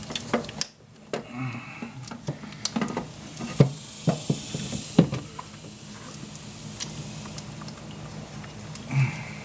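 Irregular metallic knocks and clunks as a replacement starter motor is worked down through a car's engine bay, with two sharper knocks in the middle.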